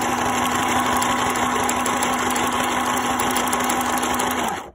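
New Home Janome mini sewing machine running steadily at speed under its foot pedal, stitching a pattern stitch, with a steady motor hum; it stops suddenly near the end.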